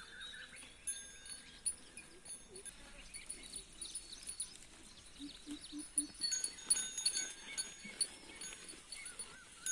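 Small bells on grazing livestock ringing intermittently in short high tinkles, with a brief bleating call about five seconds in.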